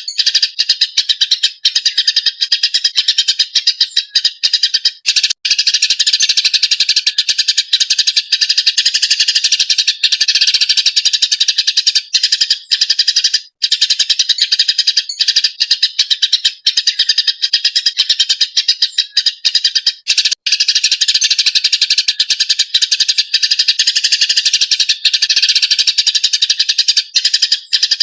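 Eurasian tree sparrows chirping loudly in a dense, agitated stream of rapid chirps, broken only by a few split-second gaps.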